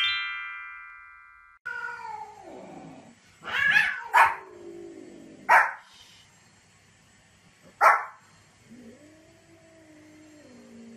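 A short rising chime jingle rings out and fades over the first second and a half. Then a small white spitz-type dog barks sharply about four times, between long, drawn-out, wavering meow-like cries, one falling near the start and one arching near the end.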